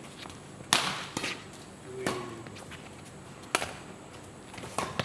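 Badminton rackets striking a shuttlecock during a rally: four sharp hits, about one every second and a half.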